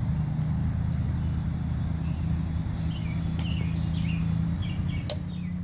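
Steady low mechanical hum, with a few short bird chirps about three seconds in.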